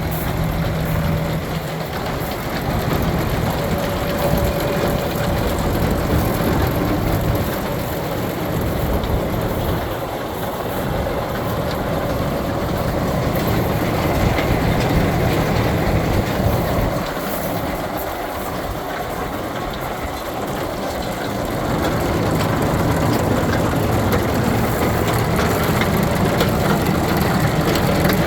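Tractor engine running steadily, driving a Kubota BF3255 round baler whose mechanism is turning over, with the level dipping and rising again a couple of times.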